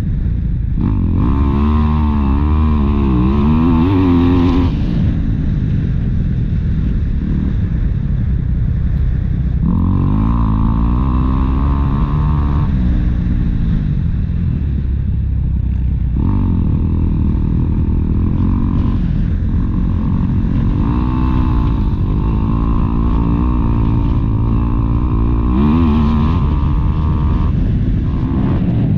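Motocross bike engine revving, its pitch rising and falling again and again in several spells, over a steady low rumble.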